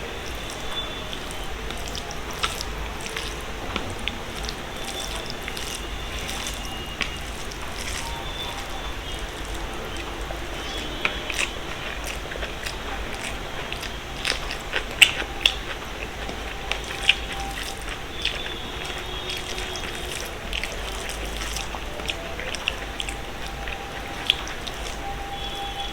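Close-up eating sounds: a person chewing mouthfuls of a vegetarian rice meal with fried vegetables, with scattered crisp clicks and crunches over a steady hiss and low hum.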